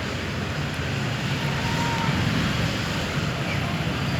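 Steady background noise: a low hum with a hiss over it, and a faint short whistle about a second and a half in.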